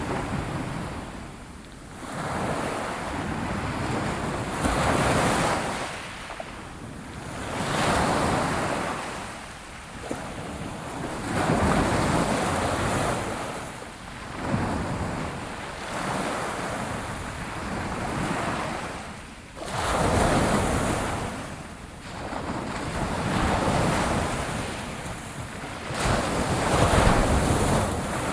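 Ocean waves breaking and washing on a shore, swelling and ebbing every few seconds with no let-up.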